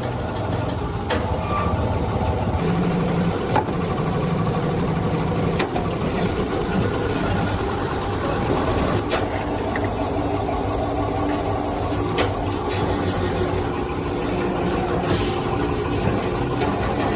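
Hydraulic press running with a steady motor-and-pump hum, with sharp metallic clicks or knocks every few seconds.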